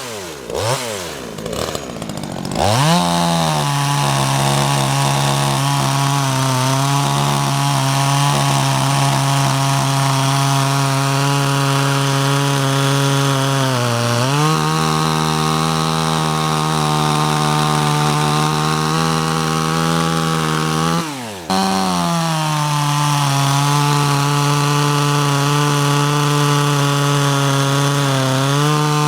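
Small 12-inch Chinese two-stroke chainsaw revved up and then held at high throttle, cutting wood. Its pitch sags under load around the middle and again near the end. About two-thirds in, the engine drops briefly toward idle and then revs back up.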